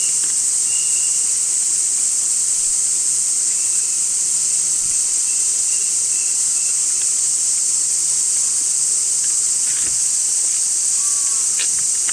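Chorus of summer cicadas: a loud, steady, high-pitched shrilling that never lets up, with a few faint short chirps over it.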